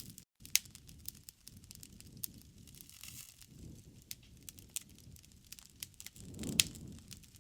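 Wood fire crackling in a fireplace: irregular sharp pops and snaps over a soft low rumble of burning.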